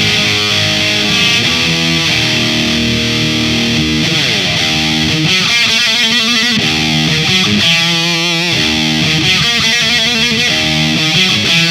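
Electric guitar played through a Marshall 8100 Valvestate, a valve preamp driving a solid-state power section, with a distorted tone. Held chords and notes, a downward slide about four seconds in, then notes that waver in pitch.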